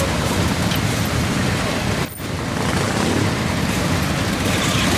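Motorcycles of a rally parade riding past, many engines running together in a dense, steady rumble, with a brief dropout about two seconds in.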